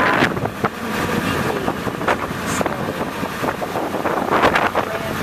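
Wind blowing across a Flip Video camera's built-in microphone: a steady rush broken by several sudden, sharper gusts.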